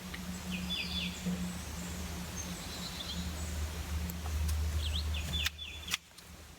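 Small birds chirping in short, repeated high calls over a steady outdoor background hiss and low rumble, which drops away near the end after a couple of clicks.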